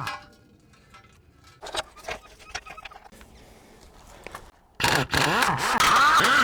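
BMW 750i's V8 engine blipped near the end, its pitch rising and then falling away, after a few seconds of quiet with scattered clinks and scrapes.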